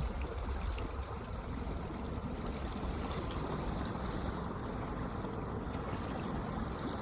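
Boat under way: water rushing steadily along the hull over a low, constant rumble.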